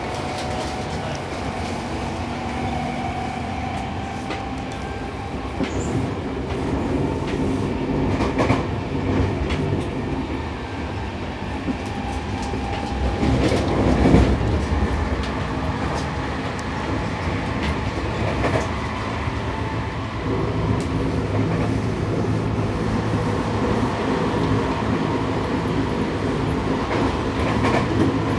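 Running noise inside a Seibu 6000 series electric train's motor car, a Toshiba IGBT VVVF unit, at line speed: a steady rumble of wheels and traction motors on the rails, with scattered clicks from rail joints.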